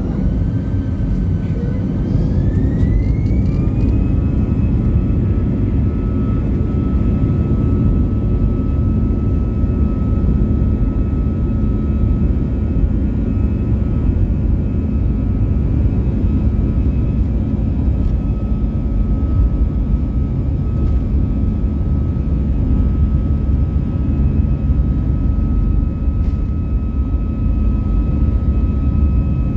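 Airbus A320-214's CFM56-5B jet engines spooling up to takeoff thrust, heard from inside the cabin: a whine rises in pitch over the first few seconds, then holds steady over a loud, even low rumble.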